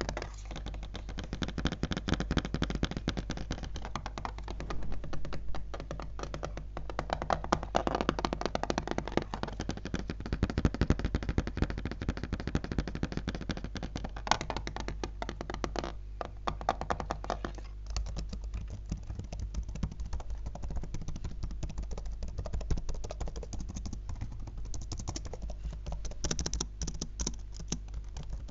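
Fast, continuous fingertip tapping on a laptop, a dense run of quick clicks and taps with no pauses.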